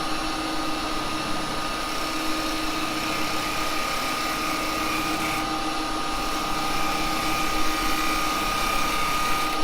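Axminster 1628 woodturning lathe running steadily, a constant motor hum with a high steady whine and no cutting strokes.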